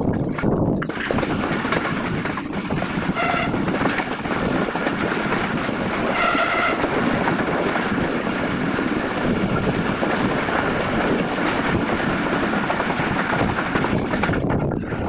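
Pakistan Railways Green Line express train running, with a steady rumble and rail clatter. Its horn sounds twice, briefly about three seconds in and for about a second around six seconds in.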